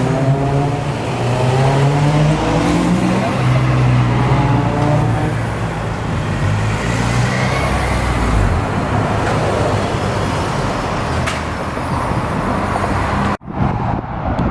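Car engine accelerating, its note climbing in steps for the first few seconds, then settling into a steady rush of engine and road noise. About a second before the end the sound cuts abruptly to wind on the microphone.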